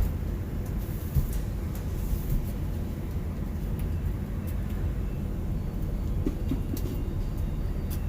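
Steady low rumble with scattered light clicks.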